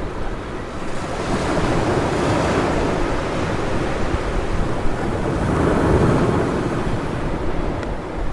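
Ocean surf breaking on a beach, a steady wash of noise that swells twice as waves come in, with wind rumbling on the microphone.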